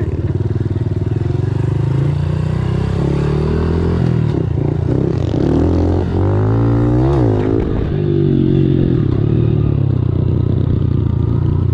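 A 110cc four-stroke pit bike engine running close by. It holds a steady pitch, then revs up and drops back about five to eight seconds in.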